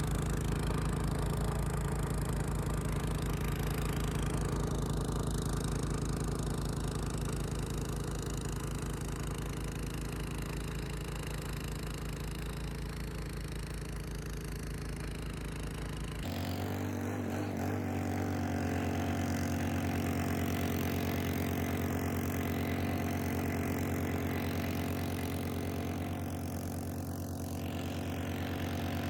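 Engine of snow-clearing equipment running steadily. About sixteen seconds in, the sound switches abruptly to a different steady engine note.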